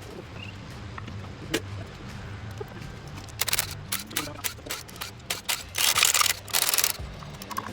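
Bursts of rapid, sharp metallic clicking from tools working on the engine during teardown, densest near the end, over a steady low hum.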